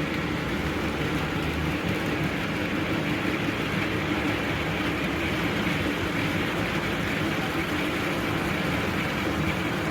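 Steady rumble and hiss of a train running, with a faint hum and no breaks.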